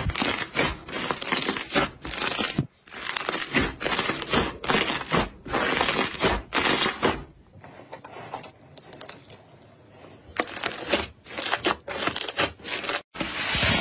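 Slime being squeezed and pressed by hand, with dense crackling and crunching. It quietens for a few seconds past the middle, picks up again, and cuts off abruptly near the end.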